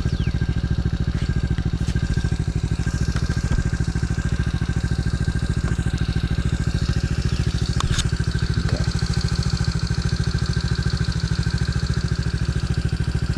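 DB14 110cc pit bike's single-cylinder four-stroke engine idling steadily, with a single brief click about eight seconds in.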